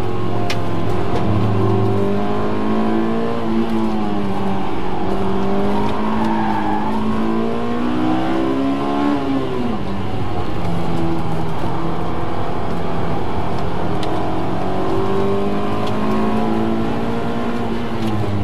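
Honda S2000's four-cylinder engine heard from inside the cabin, running high in the revs on track, with the pitch wavering as the throttle is worked. About nine seconds in the pitch drops with an upshift, then climbs steadily again, over wind and tyre noise.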